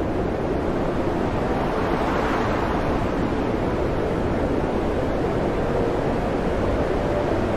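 Storm at sea: a steady roar of wind and heavy breaking waves.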